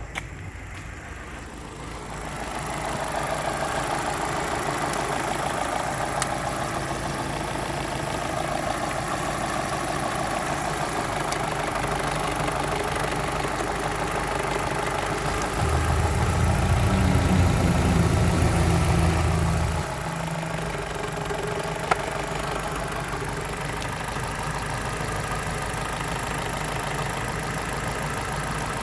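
Opel Astra H's 1.6-litre Z16XER four-cylinder petrol engine idling steadily on a test run of a used engine. It picks up about two seconds in, runs louder and deeper for a few seconds past the middle, and gives one sharp click later on.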